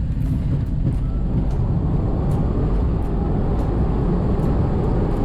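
Dassault Falcon 8X business jet rolling out on the runway under maximum braking: a loud, steady rumble, with a rushing noise that grows louder from about two seconds in.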